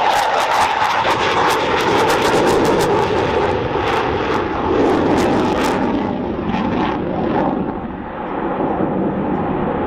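Dassault Rafale fighter jet's twin turbofan engines at high power during a display pass, a loud jet noise with sharp crackles through the first six seconds that thin out toward the end.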